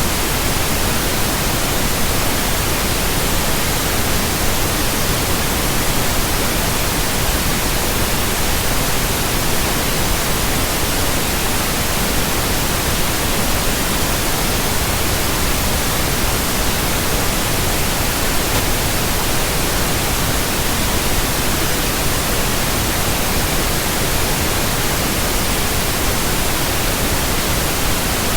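Continuous pink noise: a steady, even hiss that never changes.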